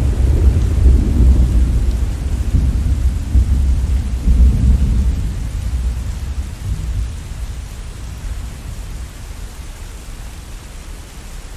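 A clap of thunder rolling away over steady rain: the low rumble swells again twice and dies away about two-thirds of the way in, leaving the even hiss of the rain.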